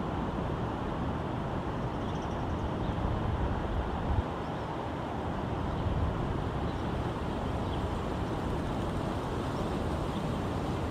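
Steady outdoor background noise with low rumbling gusts of wind on the microphone, and a short tick about four seconds in.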